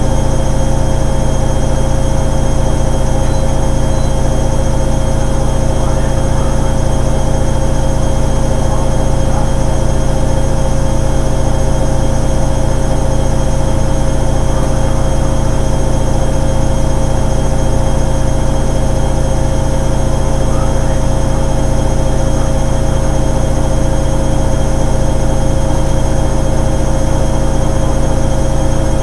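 Hoover Ecologic 800 automatic washing machine running with a steady mechanical hum, and a tone that begins to rise slowly near the end.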